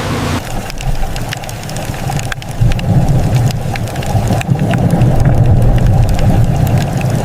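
Low, steady engine rumble of a fishing boat, with a dense patter of small sharp clicks and taps on top.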